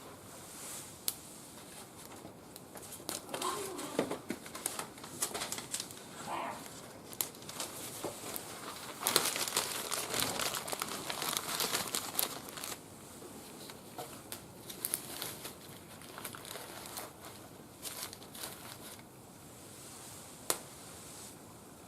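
Small wood fire burning in a Captain Stag barbecue grill, giving irregular crackles and snaps with crinkling, densest for a few seconds around the middle.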